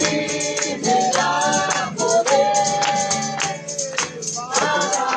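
Group of voices singing a Spanish-language worship chorus, with a tambourine struck in a steady rhythm.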